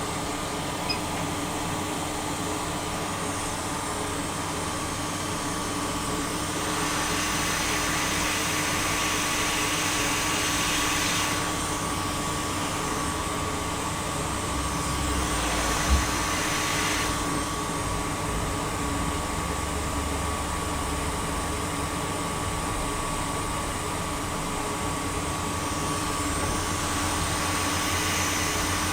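Hot-air gun blowing steadily at maximum airflow, a continuous hiss with a faint steady whine. It is softening plastic to hold a laptop charging port in place. The hiss grows brighter for several seconds around the middle, and there is a single click at about the midpoint.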